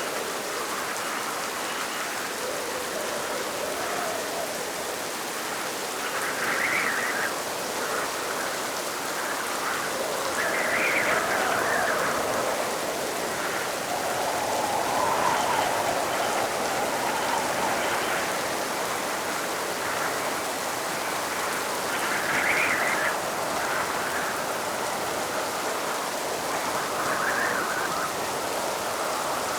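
Steady rain, with irregular swells in the sound rising and falling every few seconds.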